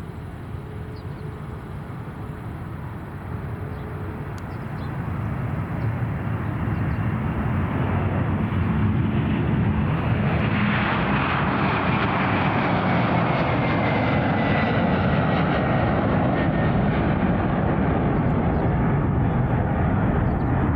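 Airliner engines passing close by: a rumble that builds over the first several seconds and then stays loud, with a high whine that slowly falls in pitch in the second half.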